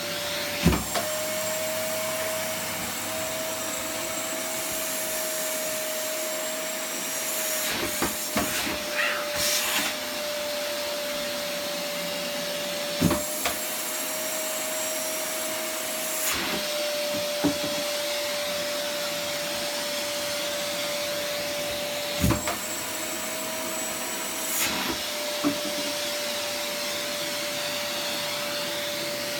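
Electric vacuum cleaner running steadily with a held whine, with a few sharp knocks and slight shifts in its pitch now and then.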